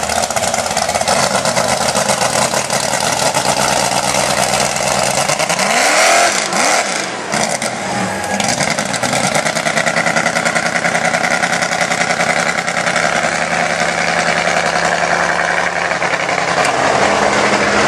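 Mud-bog truck engines running loud under heavy throttle, the revs swinging up and down around the middle.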